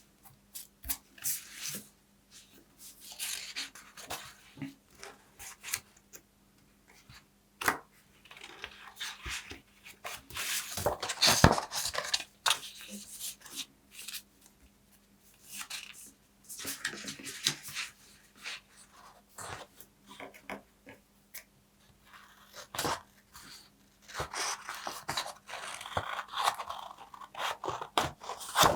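Paper being handled up close: irregular bursts of crisp crinkling and tearing, with single sharp clicks in the gaps between them.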